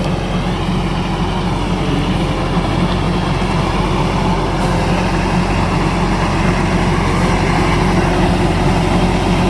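Kubota combine harvester's diesel engine running steadily with a low, even drone, growing slightly louder toward the end.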